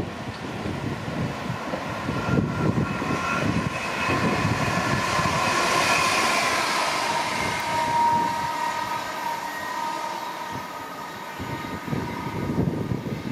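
A train passing, with a whine that swells to its loudest about halfway through, then dips slightly in pitch and fades, over an uneven low rumble.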